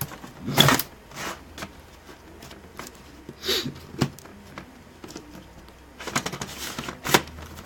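Scattered clicks, taps and scrapes of hands handling the plastic parts of an opened laptop as a part is pushed back into place.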